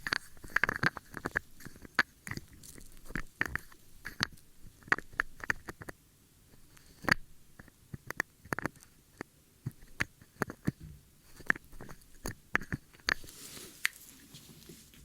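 Close-miked ear-cleaning ASMR sounds: irregular crackling clicks and small scrapes of a tool working in or against an ear, several a second, with a short lull about six seconds in and a brief rustle near the end.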